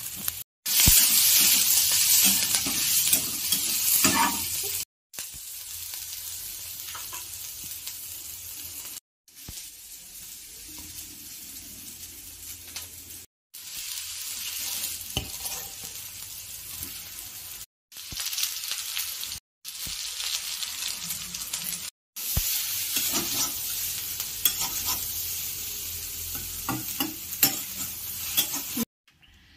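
Vegetables sizzling as they fry in a kadai (wok), with a steel spatula scraping and stirring them against the pan. The sizzle is loudest in the first few seconds and drops out abruptly in several brief silent gaps.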